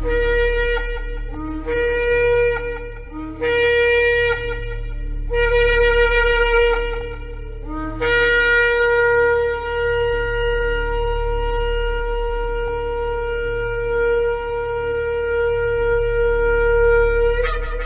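Shofar blown in four shorter blasts, each opening on a brief lower note before jumping up to its main pitch, then one long held blast of about nine seconds that leaps up in pitch just before it ends. A steady low hum runs underneath.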